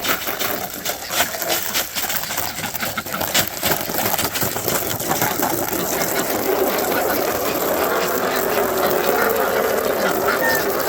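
Water from a garden hose running into a small plastic pool: a steady rattling splash that fills out about halfway through, over a scatter of crackling clicks in the first few seconds.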